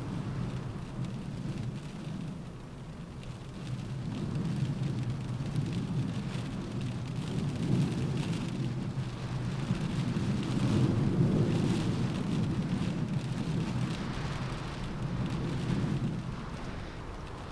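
Steady rain on a window in a storm, with a deep rumble underneath that swells to its loudest a little past the middle and then eases off.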